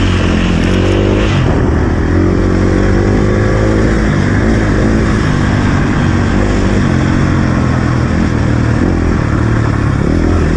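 Enduro dirt bike engine running under load, its pitch rising and falling as the throttle is worked.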